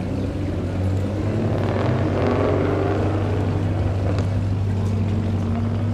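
Car engine running with a steady low drone, the engine noise swelling louder about two seconds in and easing back after.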